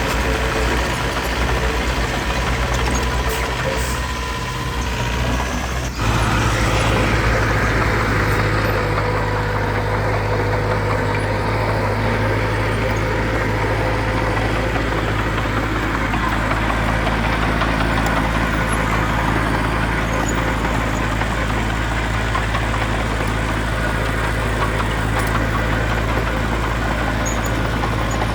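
Diesel engine of earthmoving machinery running steadily. About six seconds in the sound changes suddenly to a louder, steadier engine note.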